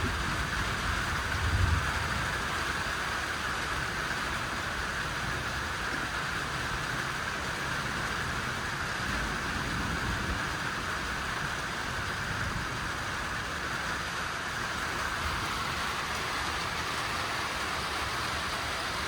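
Steady rain falling, a continuous even hiss, with a low rumble that swells briefly about a second and a half in.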